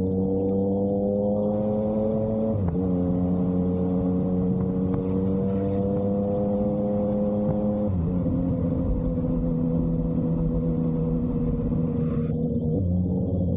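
Yamaha MT-09's inline three-cylinder engine through an SC Project exhaust, under way and slowly climbing in revs. The pitch drops sharply at two upshifts, about two and a half seconds in and about eight seconds in. After the second shift it holds a fairly steady pitch.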